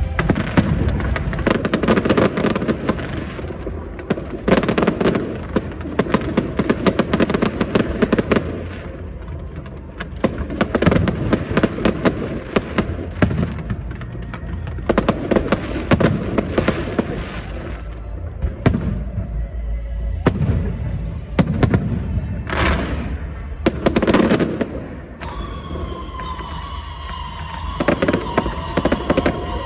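Aerial fireworks bursting in rapid clusters: dense crackling over deep booms, surging and easing every few seconds.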